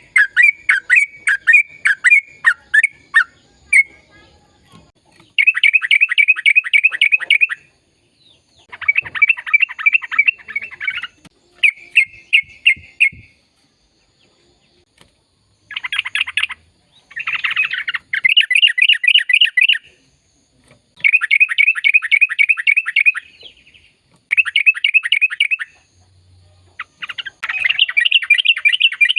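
Yellow-vented bulbul (trucukan) singing: separate chirps about three a second at first, then a string of long, rapid chattering trills of one to three seconds each, with short pauses between them.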